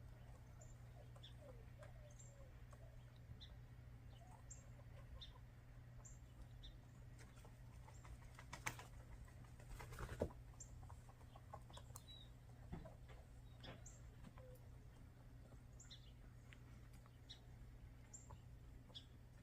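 Near silence with faint backyard hens: a few soft low clucks early on and scattered short, high chirps, with a couple of light knocks about nine and ten seconds in.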